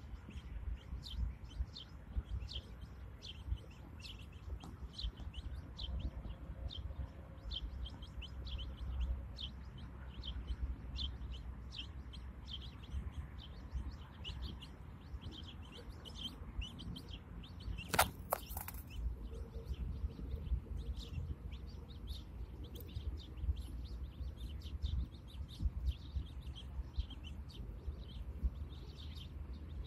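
Birds chirping in short, high peeps, several a second, over a low rumble. About eighteen seconds in comes a brief, louder crackle.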